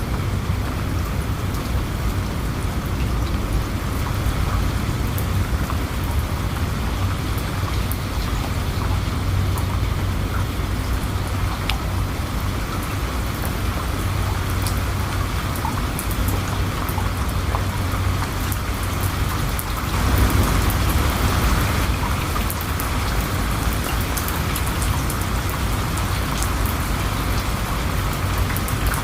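Steady rain with many fine drop ticks over a constant low rumble. It swells louder for a couple of seconds about twenty seconds in, then settles back.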